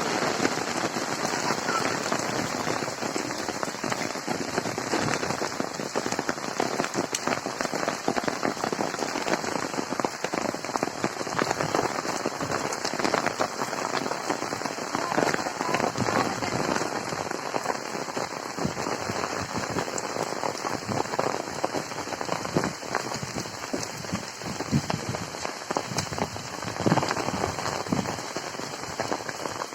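Steady monsoon rain, a dense patter of many drops with no letup.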